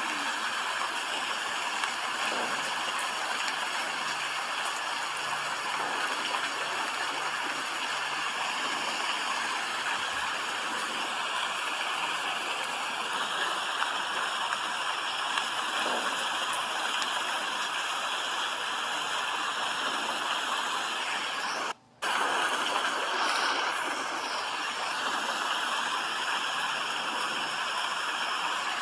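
Steady rain, an even hiss of falling water with no pattern or rhythm. It drops out for a split second about 22 seconds in, then carries on unchanged.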